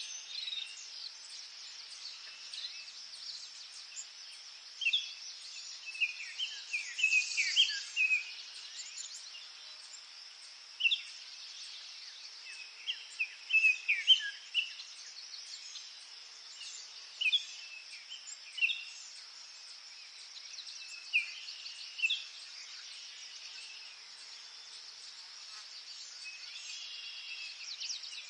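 Forest ambience: a steady, high insect drone, with birds chirping in short calls on and off and in little clusters now and then.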